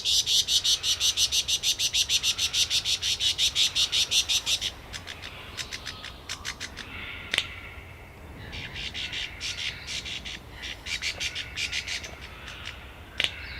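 Superb lyrebird mimicking: a fast, even train of high clicks at about seven a second for the first five seconds, a single click, then a second, quieter train of clicks.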